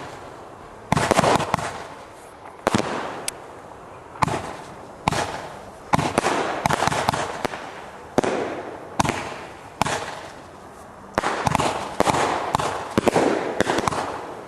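A firework going off in a long string of bursts, about a dozen in all, roughly one a second. Each is a sharp bang that dies away over about half a second.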